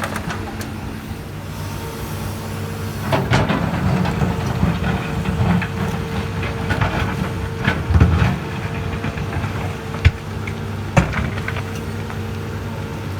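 Hydraulic excavator's diesel engine running steadily, then working harder for about five seconds from about three seconds in, with rattles and clunks from the bucket and soil. Two sharp single knocks follow near the end.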